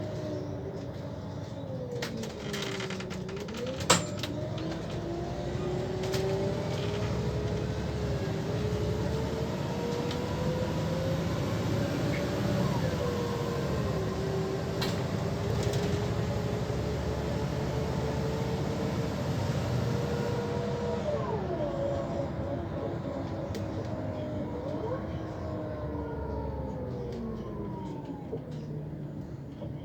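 ZF automatic gearbox of a 2005 Scania CL94UB city bus whining under way, the whine slowly climbing in pitch and dropping suddenly at each gear change, over the low drone of the diesel engine. A single sharp click about four seconds in, and the whine slides down near the end as the bus slows.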